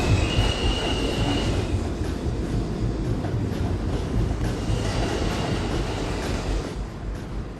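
Subway train running on the rails: a heavy low rumble with a thin, high wheel squeal near the start and again about five seconds in, slowly getting quieter.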